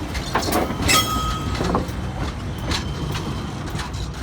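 Train rolling past on the track with a low rumble and wheels knocking over rail joints. A short high wheel squeal comes about a second in.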